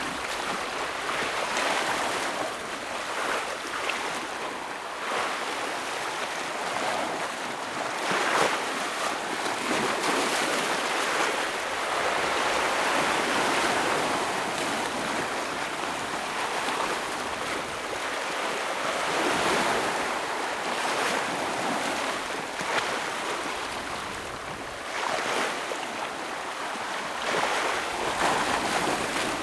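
Ocean waves breaking on a rocky shore: a steady wash of surf that swells and eases every few seconds, with sharper splashes now and then as waves strike the rocks.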